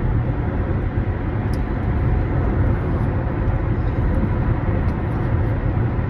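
Steady low rumble of a car heard from inside the cabin: engine and road noise, with no clear events.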